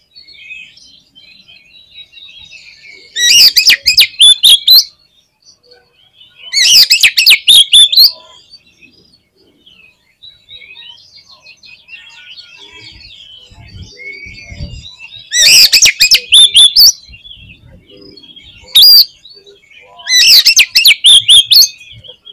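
Oriental magpie-robin (kacer) singing. There are five loud, harsh bursts of song, each about a second to a second and a half long, with quieter twittering in the gaps between them.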